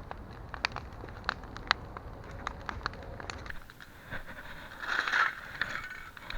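Wood campfire crackling, with sharp scattered pops over a low rumble; a short rush of noise comes about five seconds in.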